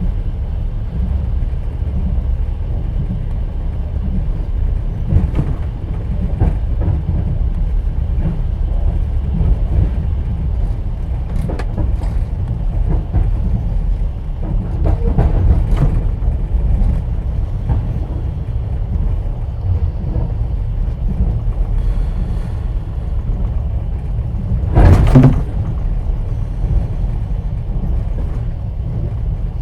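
Moving passenger train heard from inside an open-plan sleeper carriage: a steady low rumble of the wheels on the rails, with scattered faint clicks. One loud, brief clatter comes about 25 seconds in.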